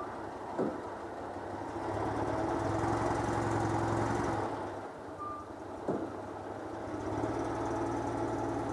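Citroën 2CV's air-cooled flat-twin engine running under way after its overhaul. The note builds and holds for a couple of seconds, eases off about four and a half seconds in, then picks up again near the end. Two quick falling squeaks and a short high beep sound briefly over it.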